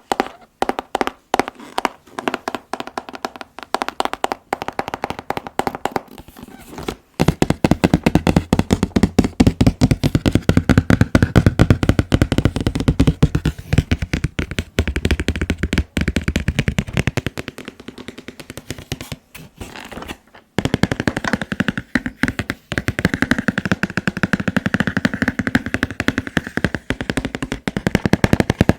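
Fast tapping with fingertips and nails on a collectible figure's box, a rapid string of many taps a second. About seven seconds in the taps turn louder and almost continuous. After a brief lull they pick up again with a hollow ring.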